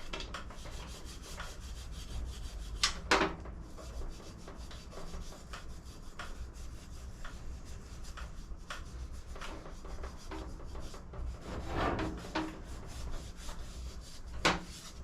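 A rag buffing a polish-like finish on a textured alloy gearbox casing: a steady scratchy rubbing, with a few knocks as the casing or hand shifts, about three seconds in, around twelve seconds, and near the end.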